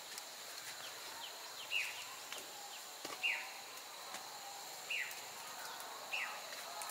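A bird gives short downward-sliding chirps, four of them spaced a second or two apart, over a steady high-pitched insect drone.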